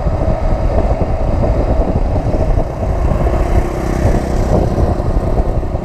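Motorcycle engine running steadily while riding on asphalt, recorded from the bike.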